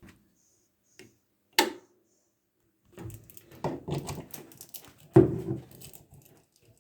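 Knocks and clatters of things being handled: a sharp knock about one and a half seconds in, then a busy run of small clicks and clatters with another sharp knock near five seconds.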